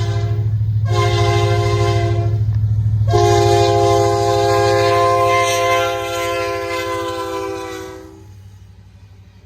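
Diesel locomotive air horn on a CP SD70ACU: a blast ending just after the start, a short blast, then a long held blast of about five seconds that stops near the end, the usual close of a grade-crossing signal. Under it runs the steady low rumble of the locomotive's diesel engine, which fades as the horn stops.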